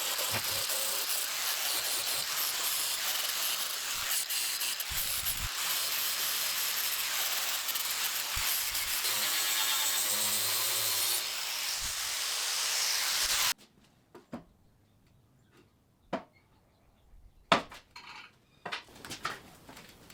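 Loud, steady hissing noise of metalworking on steel, which cuts off suddenly about thirteen seconds in, followed by a few sharp knocks and clanks.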